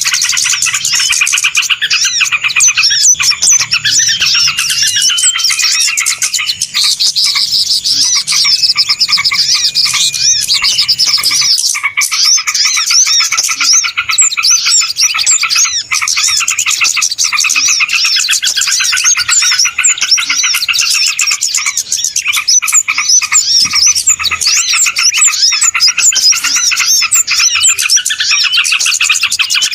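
Dense chorus of many small birds chirping and trilling at once, calls overlapping without a break, played as a bird-lure (pikat) recording to draw wild birds in.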